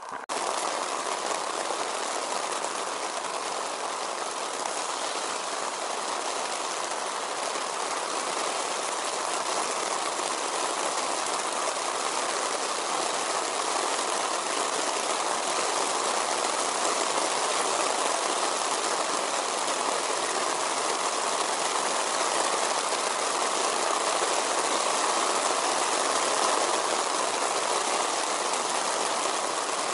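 Steady heavy rain falling, an even rushing hiss that comes in suddenly just at the start and then holds level.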